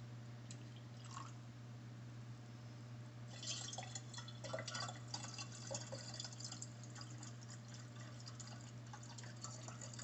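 Liquid poured and trickling into a glass, with fine splashing and drips, starting about three and a half seconds in, over a faint steady low hum.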